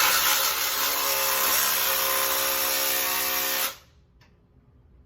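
Power drill running steadily at full speed for about three and a half seconds, then stopping abruptly.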